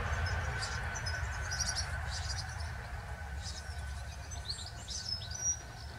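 Small birds chirping, with short high calls repeated all through, over a steady low rumble.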